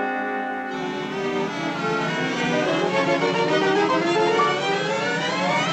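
Orchestral cartoon score: a held brass chord gives way less than a second in to violins playing quick running figures that climb in pitch toward the end.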